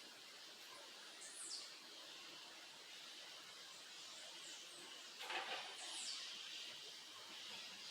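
Backyard songbirds giving two high, thin calls that sweep downward, about a second and a half in and again near six seconds, over a faint steady hiss of stream water. A brief sharp sound comes about five seconds in.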